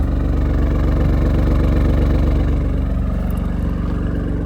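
Alfa Romeo Stelvio Quadrifoglio's 2.9-litre twin-turbo V6 idling steadily shortly after a cold start, with a deep, even note that eases down slightly near the end.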